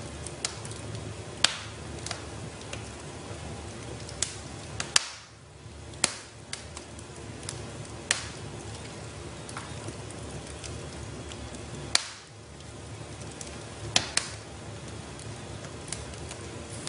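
Wood fire in a fireplace crackling: a soft steady rumble of burning with irregular sharp pops and snaps, half a dozen of them louder than the rest.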